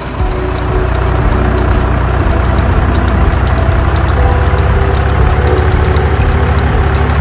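Engine idling with a steady, fast-pulsing low rumble, starting just as music stops.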